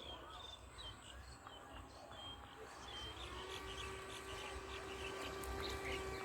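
Small birds chirping, then about three seconds in a steady motor whine comes in with a slight upward glide and grows louder: the electric motor of a foam RC F-22 Raptor model plane.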